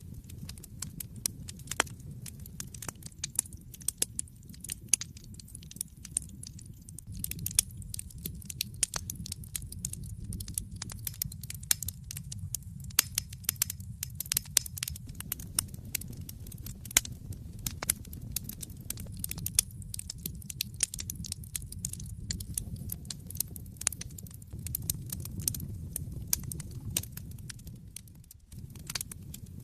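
Wood fire in a fireplace crackling, with many sharp irregular pops and snaps over a low steady rumble of the flames. The sound drops out briefly near the end.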